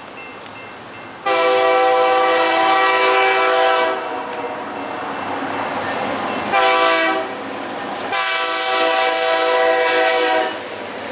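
Air horn of an approaching BNSF freight locomotive, sounding several tones together in a chord: a long blast, a short one, then another long one, with the rumble of the oncoming train under it.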